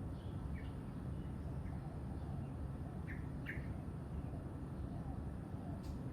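Birds chirping in short, high calls, with two louder chirps about three seconds in, over a steady low background rumble.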